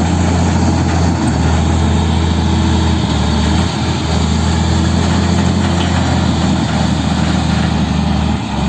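Heavy diesel engine running loud and steady with a deep low hum. The sound drops off sharply near the end.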